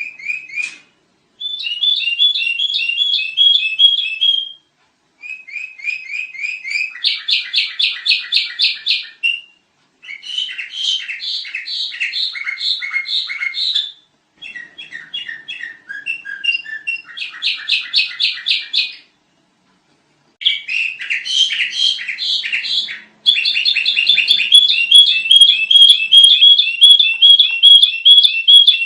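Sooty-headed bulbul (kutilang) singing loudly in bouts of fast, chattering phrases of rapidly repeated notes, each bout a few seconds long with brief pauses between.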